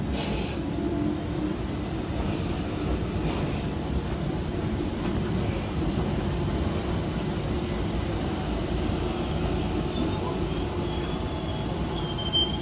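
Train running with a steady rumble; a faint, thin high squeal, typical of wheels on the rails, comes in near the end.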